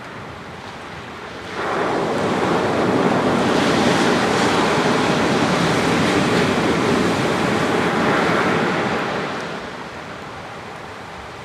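Ocean surf on a sandy beach. A wave breaks with a sudden rush about a second and a half in. Its wash runs loud for several seconds, then fades back near the end.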